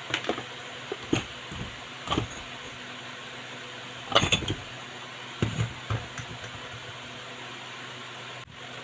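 A series of short knocks and clicks, as of small parts and tools being handled during the repair, loudest about four seconds in. A steady low electrical hum runs underneath.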